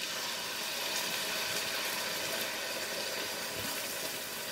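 Food sizzling steadily in hot oil on the stovetop: an even frying hiss.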